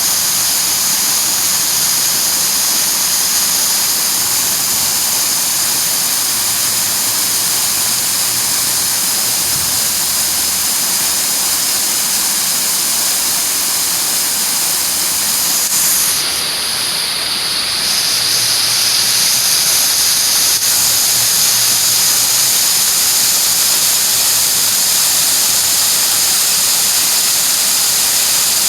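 Water falling and splashing in a park's fountain and waterfalls: a steady rushing hiss, its highest part dipping briefly a little past halfway.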